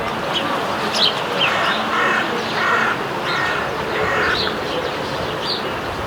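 Sparrows chirping in quick short notes throughout, with a run of four harsher, lower calls in a row in the middle.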